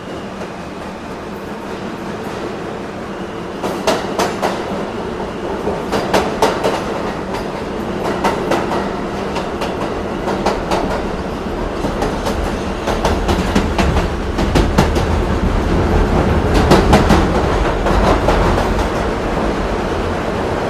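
A train running along the track, its wheels clicking over the rail joints in recurring clusters over a steady rumble, growing a little louder.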